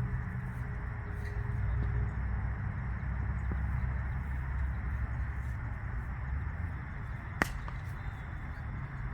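Steady low rumble of open-air ambience, with one sharp crack about seven and a half seconds in: a cricket ball striking a bat.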